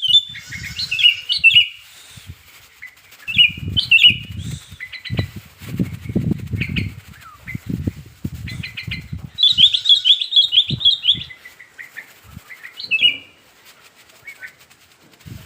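Sooty-headed bulbul (kutilang) singing in several short bursts of quick, chirping phrases with pauses between them: the excited calling of a male in breeding condition. Low, dull thumps and flutters sound from about three to nine seconds in.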